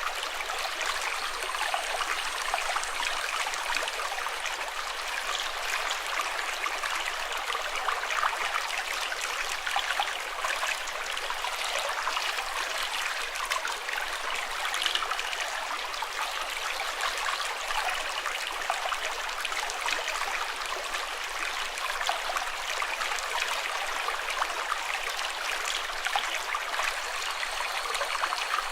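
Running water: a stream flowing and trickling in a steady, unbroken rush.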